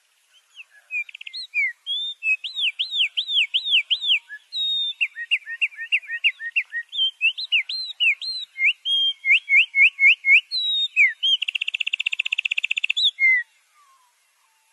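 A songbird singing a long, varied song of loud whistled notes that rise and fall in quick runs, breaking into a fast rattling trill near the end.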